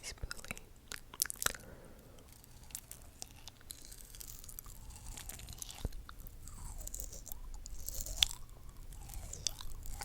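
ASMR mouth sounds close to the microphone: wet clicks and smacks, thickest in the first couple of seconds, then softer breathy sounds.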